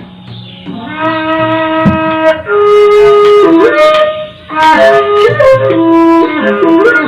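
A bamboo suling flute plays a melody of long held notes that step and slide between pitches, entering about a second in with a short break in the middle. Sharp percussion strokes from the Sasak shadow-puppet gamelan come in now and then.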